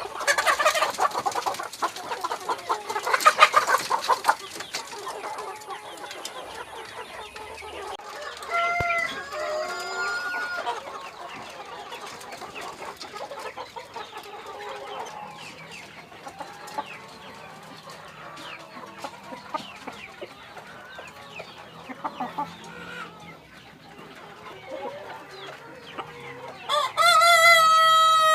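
Ayam Cemani chickens clucking and squawking, loudest in the first few seconds. Near the end a rooster crows once with a long, held call.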